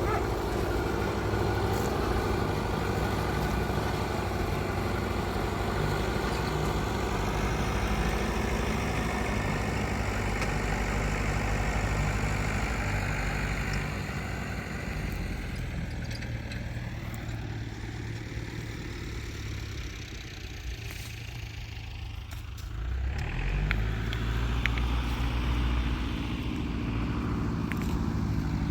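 An engine running steadily. It eases off in the middle and picks up again, louder, a little before the end.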